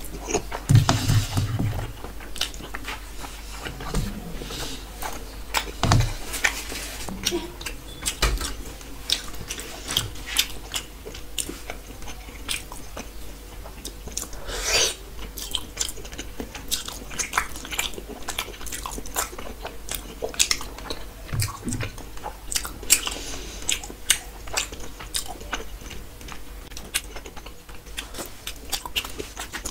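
Close-miked chewing and wet lip-smacking of a person eating rice and curry and rasgulla by hand, with many sharp mouth clicks.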